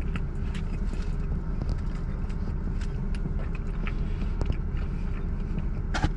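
A person chewing food, with scattered soft mouth clicks, over a steady low rumble.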